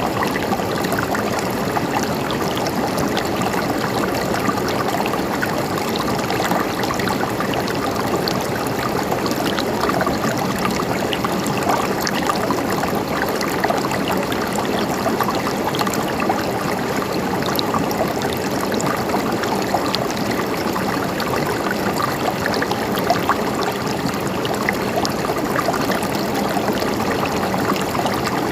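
River water flowing steadily over rocks, a constant rushing babble dotted with small splashes and gurgles.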